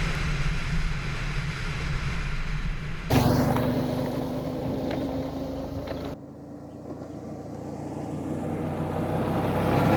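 Suzuki V-Strom 650 motorcycle engine running over road and wind noise, in three short clips spliced together with abrupt cuts about three seconds in and about six seconds in; the last clip grows steadily louder.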